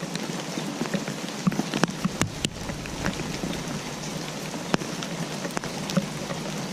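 Steady rain with many individual drops landing in sharp, irregular ticks.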